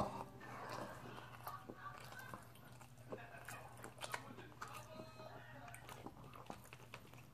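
Close-up chewing of a mouthful of shrimp tempura sushi roll: a sharp click as the piece goes in, then soft, faint wet mouth clicks and crunches of chewing.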